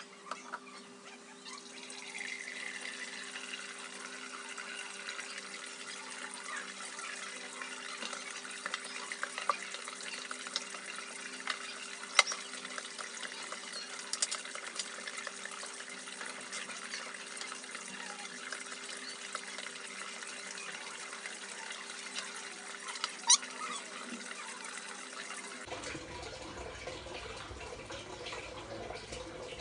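Water running from a tap into a sink in a steady stream, with a few sharp clicks and knocks along the way.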